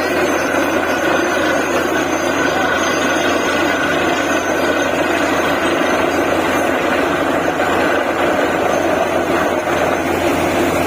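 DTH borewell drilling rig running steadily: a loud, unbroken drone of its diesel engine and air compressor with a constant hum.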